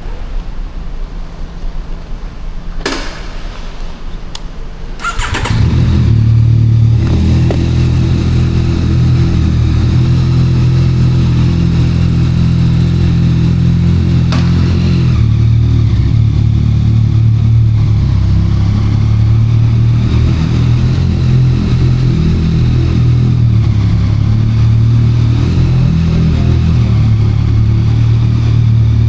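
A 2024 Yamaha MT-09 SP with a Spark triple-exit full exhaust: a few clicks, then the engine starts about five seconds in and settles into a loud, steady idle.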